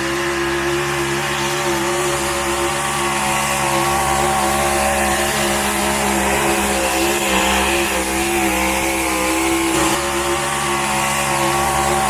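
Pulling truck's engine held at high revs under full load while it drags the pulling sled: a loud, steady drone whose pitch wavers slightly partway through.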